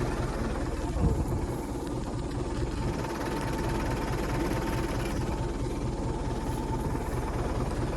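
A vehicle engine running steadily with a low, fast, even throb, and a brief bump about a second in.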